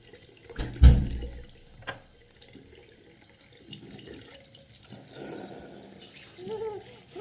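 Water running or splashing, with a heavy thump about a second in and a sharp click shortly after.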